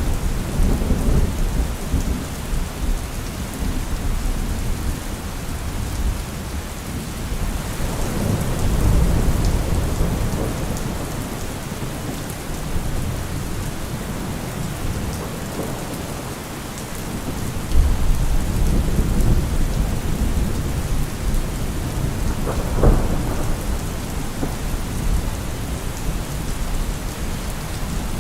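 Thunderstorm: steady rain with rolling thunder. Low rumbles swell and fade several times, and a sharper thunderclap comes about two-thirds of the way through.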